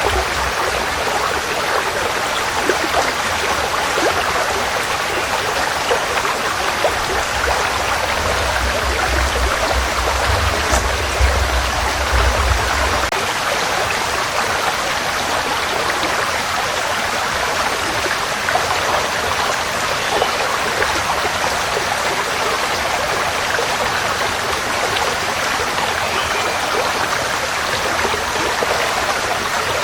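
Forest stream flowing steadily with an even rushing sound. A low rumble runs underneath and stops abruptly about thirteen seconds in.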